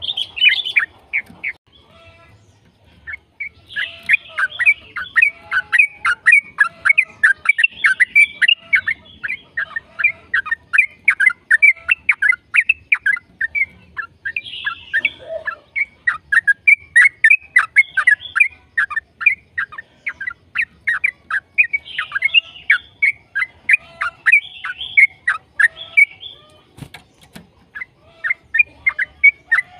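Yellow-vented bulbul (trucukan) singing long, rapid runs of short chirping notes, several a second, with a brief pause about two seconds in.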